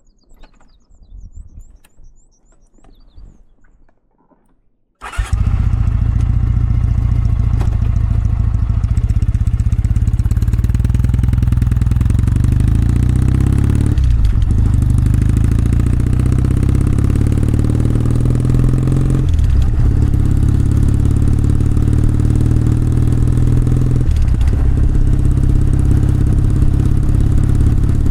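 Kawasaki W650's air-cooled parallel-twin engine and exhaust starting about five seconds in, then running steadily, its note briefly changing three times.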